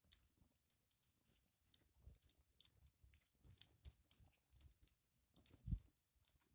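Campfire burning, its wood crackling with faint, irregular sharp snaps and pops.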